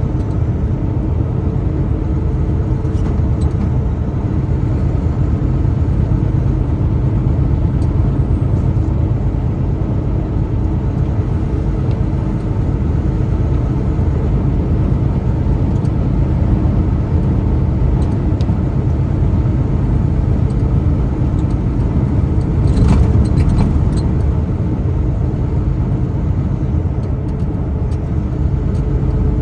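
Steady low rumble of a truck being driven: engine and road noise. A few brief clicks come about 23 seconds in.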